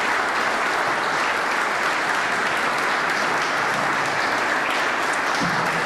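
Audience applauding steadily, a dense, even clapping from a large crowd in a hall.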